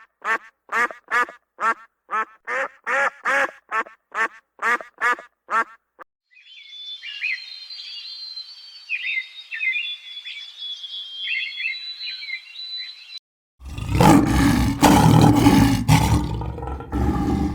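A series of animal calls. First comes a rapid run of short quack-like calls, about three a second, for some six seconds. Then softer high-pitched chirps and squeaks follow, and about fourteen seconds in a loud, rough roar starts.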